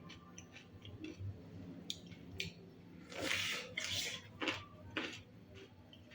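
Close-miked eating sounds: chewing with scattered wet mouth clicks and a louder crackly stretch about three seconds in.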